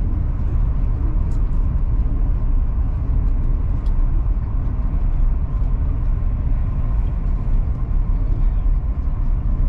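Steady low rumble of a Chinese high-speed train, heard from inside the passenger car as it runs at speed, with a faint steady hum above it.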